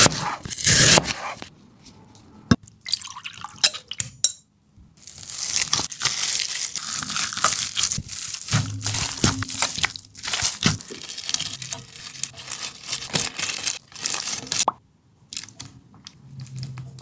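Knife cutting through seedless watermelon: crunchy, wet slicing through the juicy flesh, with a few sharp knocks of the blade on the cutting board.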